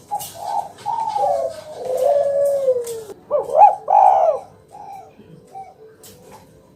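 Spotted dove (tekukur) cooing: a phrase of coos with a long falling note in the middle, the loudest coos coming about three to four seconds in, then a few softer coos that stop shortly before the end.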